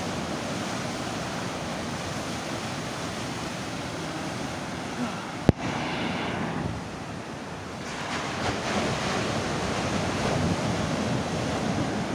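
Sea surf washing steadily onto the shore, with some wind on the microphone. A single sharp click about halfway through.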